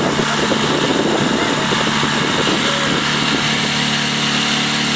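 A small boat's engine running steadily under way, over a steady hiss.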